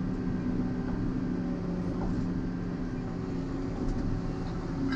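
Volvo EC140EL excavator's diesel engine running steadily, with a few faint clicks.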